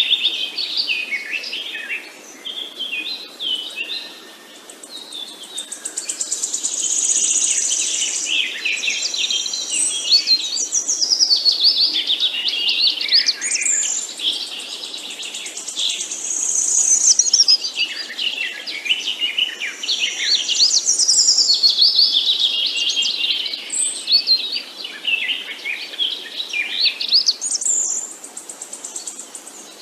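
Several songbirds singing and chirping at once, a continuous chorus of rapid, overlapping high trills and chirps.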